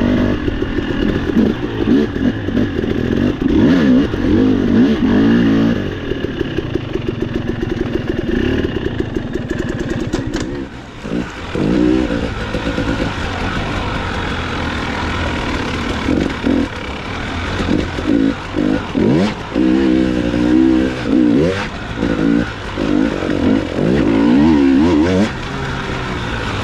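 Dirt bike engine revving up and down as it is ridden over rough technical trail, in short bursts of throttle with brief let-offs in between.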